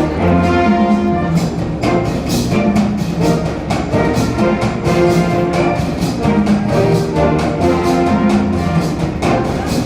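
A university brass band playing live: a melody on brass and wind instruments over a steady drum beat.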